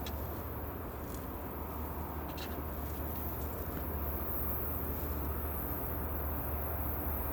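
Steady low rumble of a distant train, slowly growing louder as it approaches, with a few faint clicks in the first couple of seconds.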